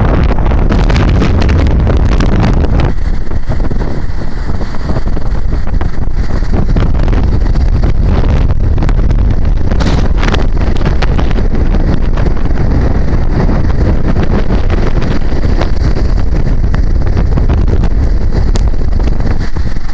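Strong wind buffeting the microphone: a loud, steady low rumble. The hiss above it is brighter for the first few seconds.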